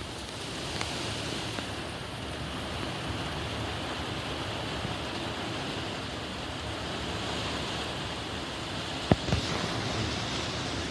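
Steady rush of wind-driven rain during a severe thunderstorm, with a single sharp tap about nine seconds in.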